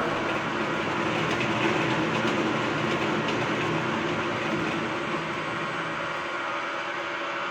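Fish sorting machine running with a steady rattling clatter.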